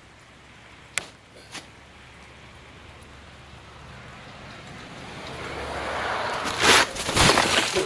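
Wet, rain-soaked snow overhang breaking loose and sliding off a roof: a hiss that builds over several seconds, then heavy crashing thuds as the mass comes down, about seven seconds in. About a second in, a sharp knock and a smaller one just after.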